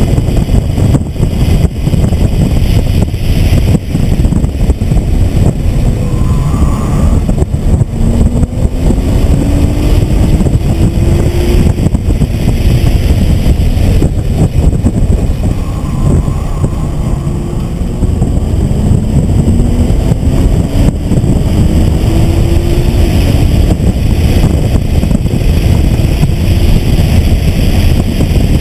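Nissan GT-R's twin-turbo V6 heard from inside the cabin at track speed: a heavy, loud rumble of engine, road and wind noise, with the engine note rising twice under acceleration, about eight seconds in and again around twenty.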